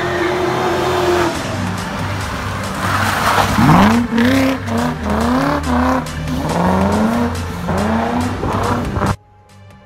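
Supercharged 4.0-litre BMW M60 V8 (Eaton M112 supercharger) in a BMW E34 540i, holding a steady note at first, then revving hard in a string of short rising pulls as the car slides around, with tyre squeal. The sound cuts off suddenly near the end.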